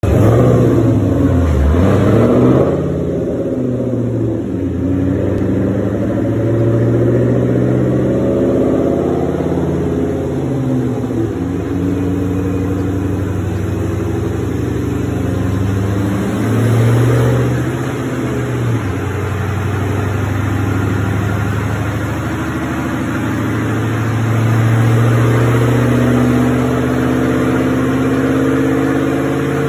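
Supercharged two-valve 4.6-litre V8 of a cammed SN95 Mustang GT, fitted with a Whipple 2.3 supercharger and full exhaust, running on a chassis dynamometer. It is loudest at the start, with a quick swing in engine speed in the first couple of seconds. After that it settles into steadier part-throttle running, with the engine speed rising and falling slowly several times.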